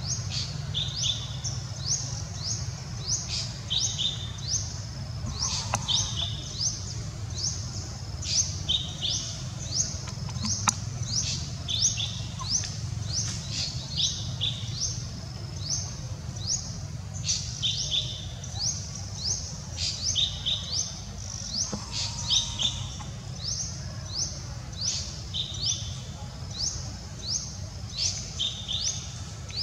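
Birds calling: quick runs of short, high, rising chirps, repeated in phrases every second or two, over a steady low background rumble.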